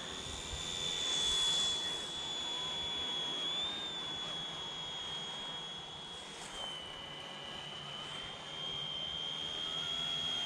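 Mini RC helicopter's small electric motor and rotor whining at a high, steady pitch in flight while carrying a GPS speed logger. The pitch wavers, drops a little about two-thirds of the way through and climbs back near the end.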